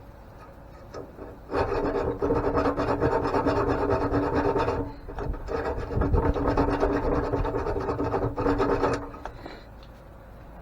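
Two bouts of steady rasping, each a few seconds long with a short break between, as a stuck old bolt on an antique grain mill is cut or ground away to free a part.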